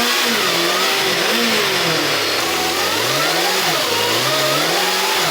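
Motorcycle engine revving hard during a burnout, the revs rising and falling repeatedly as the rear tyre spins.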